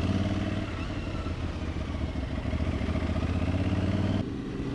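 Aprilia Tuareg 660's parallel-twin engine running at low road speed, with wind rushing past the helmet-mounted microphone. About four seconds in, the higher rushing sound drops away and the engine note eases.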